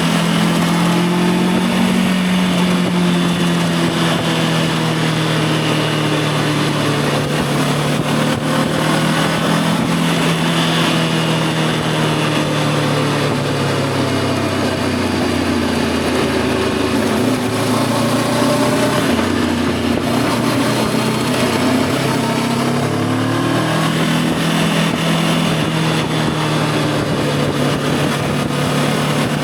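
Voge 525 DSX parallel-twin engine running under way. Its pitch drops in the middle as the revs fall, then climbs again about two-thirds of the way through, with wind and road noise over it.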